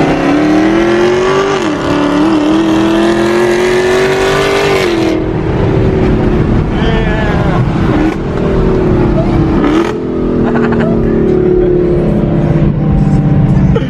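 Dodge Charger Hellcat's supercharged 6.2-litre Hemi V8 heard from inside the cabin, pulling hard from a standing start after a countdown, its pitch rising for about five seconds with a quick gear change under two seconds in. About five seconds in it lifts off suddenly, then carries on at part throttle with two more upshifts and settles to a steady cruise.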